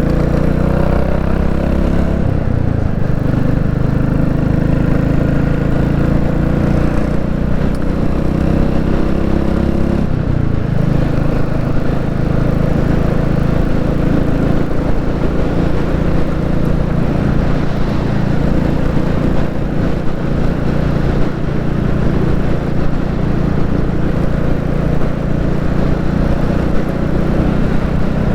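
Royal Enfield Classic 350's single-cylinder engine running steadily on the move. Its pitch shifts with the throttle, with short breaks about two and a half and ten and a half seconds in.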